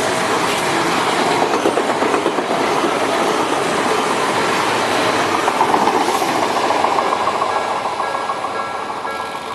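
An Odakyu Line electric train passing close by over a level crossing, its wheels clattering over the rail joints. It is loudest about six seconds in and then fades. The crossing's warning bell rings through the train noise and is heard more clearly near the end as the train draws away.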